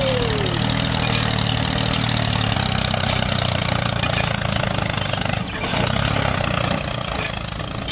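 An engine running steadily at a low, even hum, dipping briefly about five and a half seconds in.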